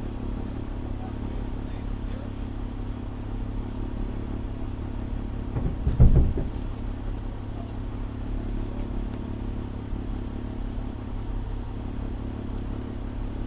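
Fire engine's diesel engine running steadily, a low hum, with one brief loud thump about six seconds in.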